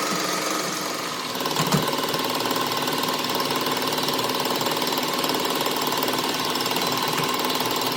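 Machinery running steadily with a fast, even mechanical rattle, and a couple of short knocks about a second and a half in.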